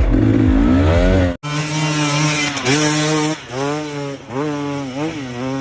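Dirt bike engines revving hard; after an abrupt cut about a second in, one bike's engine climbs and drops in pitch again and again in short bursts of throttle.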